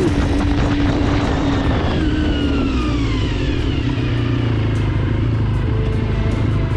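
Motor vehicle engine whose pitch falls steadily over the first few seconds, then settles into a steady low hum.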